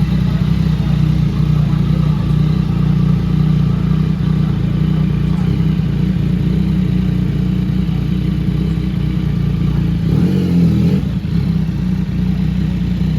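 Motorcycle engine running steadily close by at a low, even speed.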